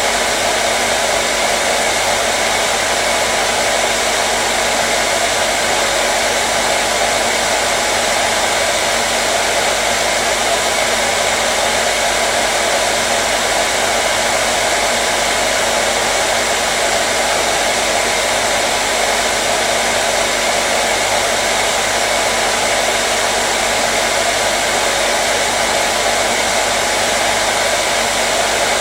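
Hair dryer blowing continuously at a steady setting: an even, unbroken rush of air with a faint constant motor hum, with no change in speed.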